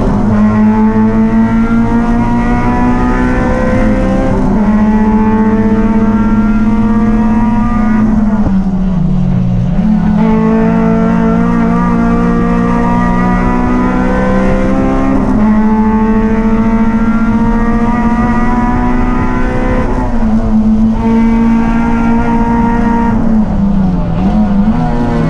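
Race vehicle engine running hard at high, fairly steady revs. Its pitch drops off and climbs back several times, most deeply about 9 seconds in, as the driver lifts off and gets back on the throttle through corners.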